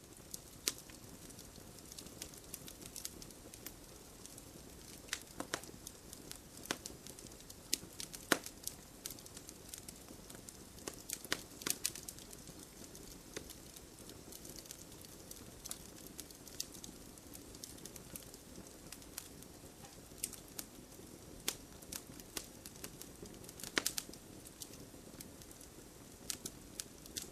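Wood campfire burning with a steady low hiss and frequent irregular sharp crackles and pops.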